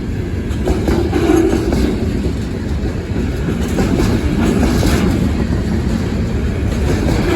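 Freight train cars rolling past at speed with a steady low rumble of wheels on rail and faint scattered clicking.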